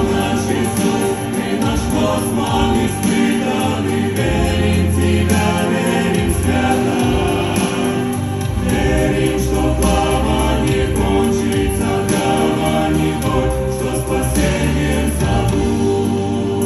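Christian choral music: a choir singing with instrumental accompaniment.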